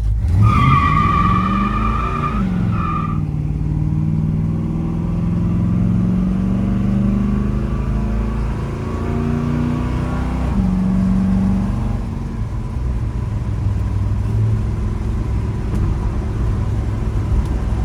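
The 402 big-block V8 of a 1972 Chevrolet El Camino SS accelerating hard from a launch, a rear tyre squealing for the first three seconds as it lays a black mark. Engine pitch climbs, drops at an upshift about two seconds in, then climbs for several seconds until a second upshift about ten seconds in. Only one wheel burned, a sign the 12-bolt rear end may be non-posi.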